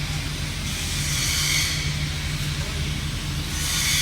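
TIG welding arc hissing on stainless steel over a steady low hum from the welding set. The hiss starts about a second in, fades before the middle and starts again near the end.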